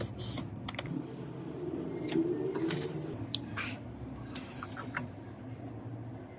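Irregular light clicks and taps over a steady low hum, with a short rustle about two to three seconds in; the clicks die away near the end.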